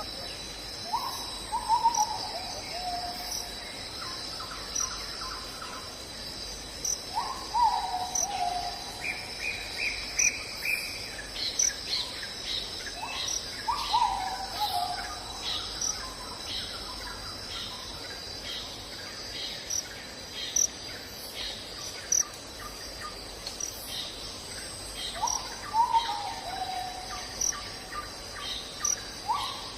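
Night insects trill steadily while a bird gives a short falling call about five times, each call lasting around a second. A series of short clicking chirps comes about once a second through the middle.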